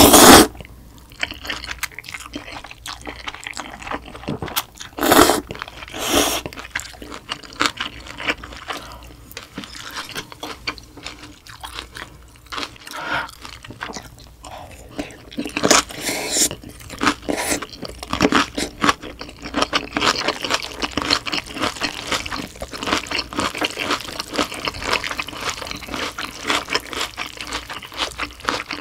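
Eating sounds of spicy cold noodles and kimchi: a loud slurp of noodles at the very start, then chewing with wet mouth sounds and crunchy bites of kimchi. The crunching turns into rapid, dense chewing crunches through the second half.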